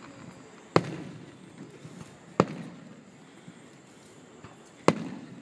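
Aerial firework shells bursting: three sharp booms, about a second in, about two and a half seconds in and near the end, each trailing off in a short rumbling echo.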